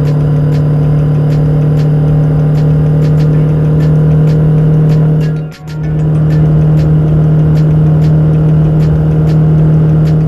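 Ducati Scrambler motorcycle engine running at a steady pitch at highway speed, cutting out briefly about halfway through before picking up at the same pitch. Background music with a regular beat plays over it.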